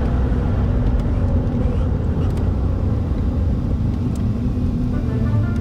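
Car engine and drivetrain running as the coupe sets off, a steady low rumble. Music comes in near the end.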